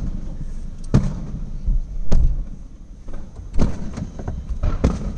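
Aerial firework shells bursting, heard as four muffled booms spaced a second or so apart from inside a car.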